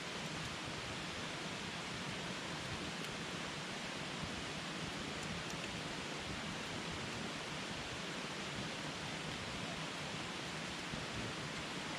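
Campfire burning with a steady hiss and a few faint crackles.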